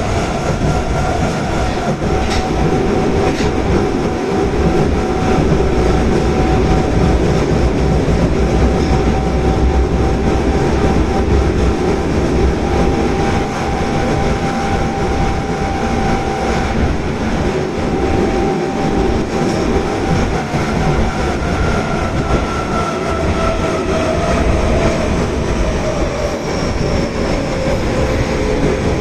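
Osaka Metro Tanimachi Line subway train running between stations: a steady rumble of wheels on rail with a whining tone that drops in pitch near the end.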